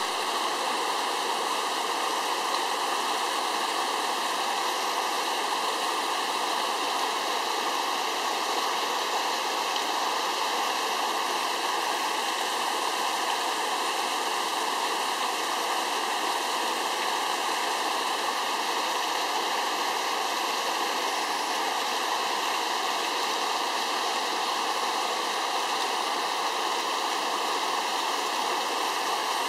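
Waterfall pouring, a steady unbroken rush of water.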